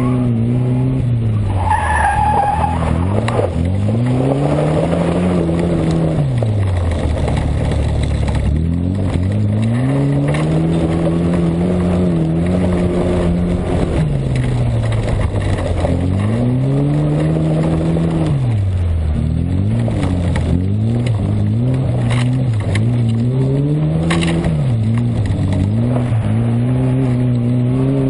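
A Moskvich rallysprint car's engine driven hard on a gravel course, heard from a camera on the car's side: the revs climb and hold high, then drop sharply as the driver lifts or shifts, over and over, with steady gravel and tyre noise beneath.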